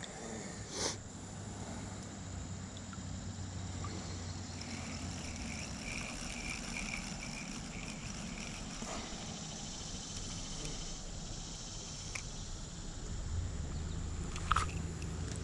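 Quiet riverside ambience: insects chirping and trilling over a low steady hum, with a couple of small clicks.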